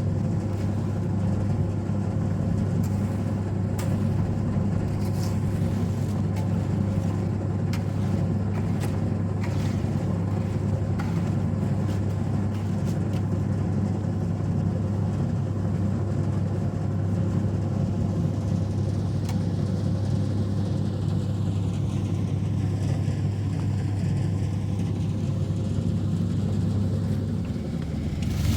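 A steady, even engine drone with a strong low hum and no change in loudness.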